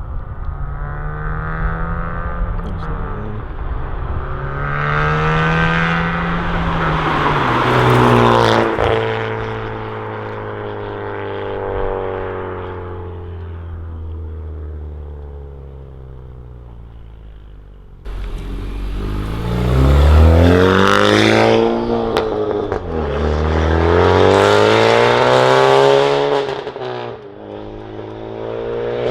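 Honda Civic Type R's 2.0-litre turbocharged four-cylinder, breathing through a catless downpipe and Remus valved cat-back exhaust, pulling hard through the gears. The pitch climbs and then drops back several times. The sound changes abruptly about eighteen seconds in, and then more hard pulls follow.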